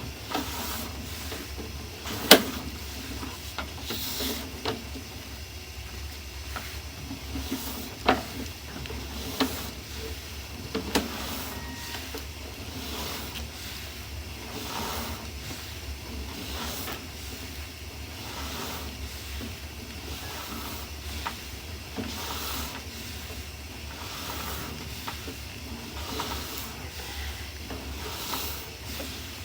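Sewer inspection camera on its push rod being fed along a clay sewer pipe: repeated sliding swishes with a few sharp knocks as the camera head bumps along, over a steady low hum.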